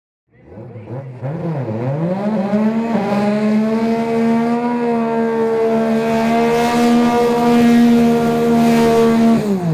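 Twin-turbo VQ35 V6 drag-car engine blipped twice, then held at steady high revs for about seven seconds before the revs drop away sharply near the end.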